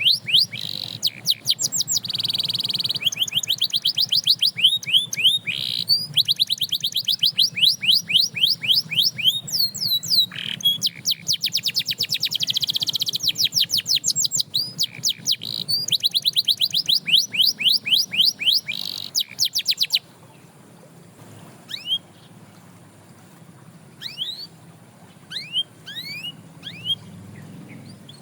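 Domestic canary singing: long, fast trills of rapidly repeated sweeping notes, run together into rolling phrases. About two-thirds of the way through the trilling stops abruptly, and only scattered single rising chirps follow, much quieter.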